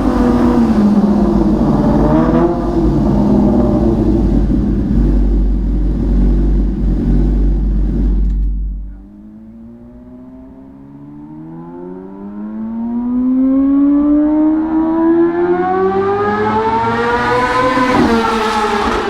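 Yamaha R6 inline-four sportbike with an SP Engineering aftermarket exhaust, very loud. For about nine seconds it runs at high revs with a deep rumble, then the sound drops off sharply. It then revs up steadily, rising in pitch and growing louder, before sweeping past near the end with the pitch dropping.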